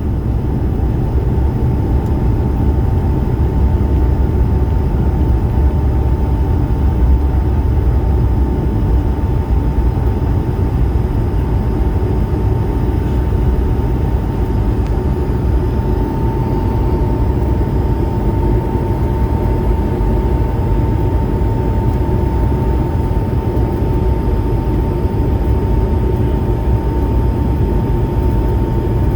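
Airbus A220-300's Pratt & Whitney geared turbofan engines heard from inside the cabin under high power: a loud, steady low rumble with a thin, steady whine held throughout.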